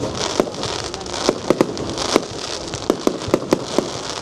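Fireworks display: about ten sharp, irregularly spaced bangs of bursting shells over a steady crackling fizz.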